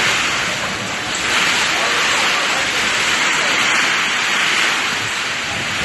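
Heavy rain pouring down in a loud, steady, dense hiss.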